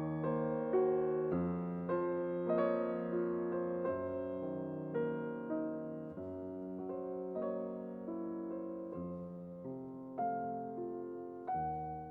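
Background piano music: soft notes played one after another, each ringing and fading.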